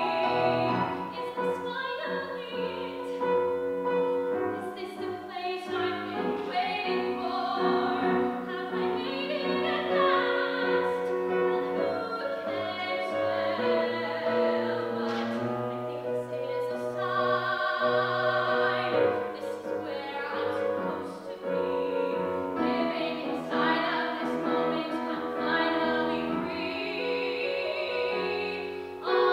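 Musical-theatre song sung with vibrato over piano accompaniment.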